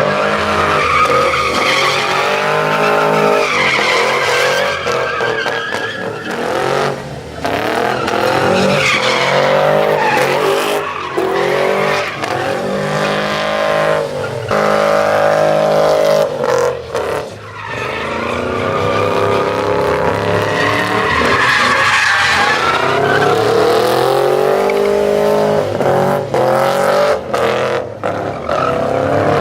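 Trucks doing burnouts and donuts: engines revved hard, their pitch rising and falling over and over, with tyres squealing against the pavement.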